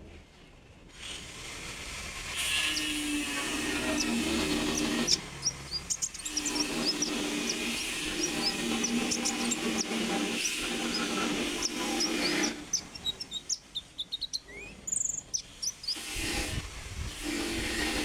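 Konin songbird singing: a rapid run of short, high chirps that thins out about two-thirds of the way through, over a steady low hum.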